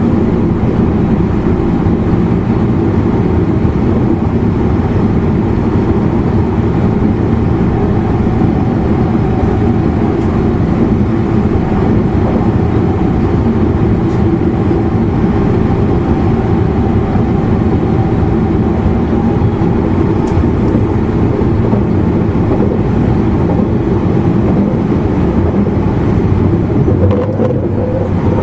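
Steady running noise of a JR East E259 series Narita Express train, heard from inside the motor car: wheels on rail and the traction equipment under the floor, a dense even rumble. A faint whine rises slightly near the end.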